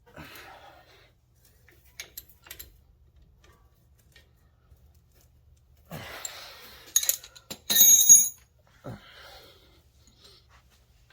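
Metal tools and brake parts being handled: a few light clicks, some shuffling, then a loud clatter of metal striking metal with a bright ringing about seven to eight seconds in, and a last knock shortly after.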